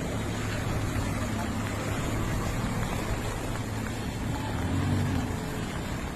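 Vehicle engines running in heavy rain: a steady low engine hum under an even wash of rain and water noise.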